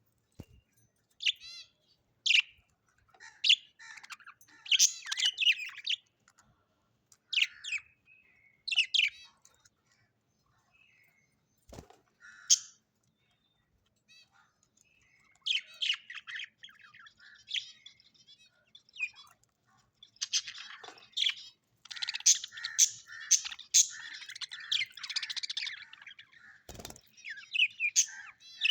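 Small parrots chirping in short high bursts, with a quiet spell midway and busier, overlapping chatter in the last third. Two sharp knocks sound, one near the middle and one near the end.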